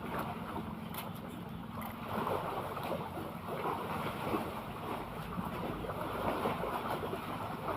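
Sea water lapping and splashing, with wind rumbling on the microphone.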